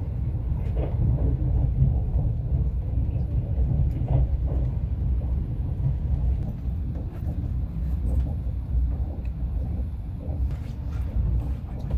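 Steady low rumble of a moving passenger train at speed, heard from inside the carriage.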